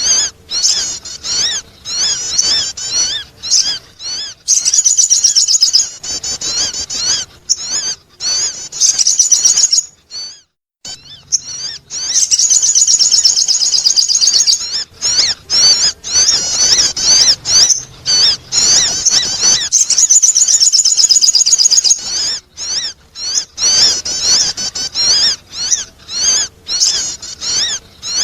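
Sogon bird calls played as a lure: rapid, high chirping in long runs broken by short pauses, with a brief silence about ten seconds in.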